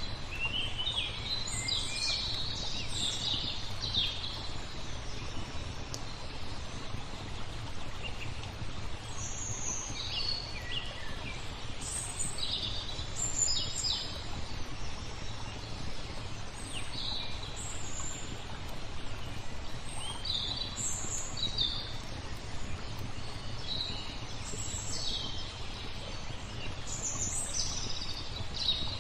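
Small songbirds chirping and trilling in short, scattered phrases over a steady wash of flowing water.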